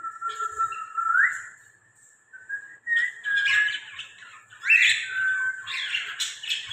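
Caged cockatiel whistling a held note that slides upward at the end, followed after a short pause by busy chirping and whistled calls from the cage birds.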